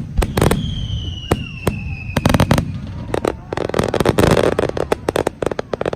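Aerial fireworks display: a rapid run of sharp booms and bangs from bursting shells. A whistle falls slightly in pitch for about two seconds in the first half, and a dense patter of crackling bursts comes about four seconds in.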